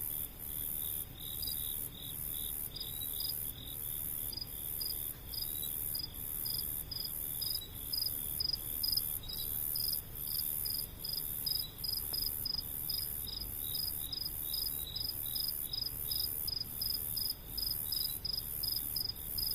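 Insects chirping in a steady rhythmic chorus: a very high pulsing trill beating about one and a half times a second, with faster, lower chirps over it, and a steady low background noise underneath.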